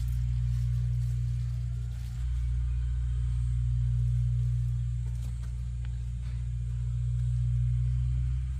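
A motor running steadily with a low drone, its loudness swelling and easing a little.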